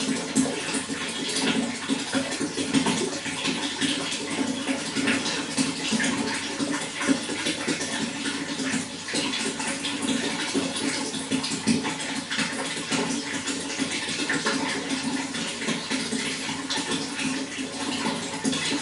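Running water flowing steadily, with many small splashes throughout.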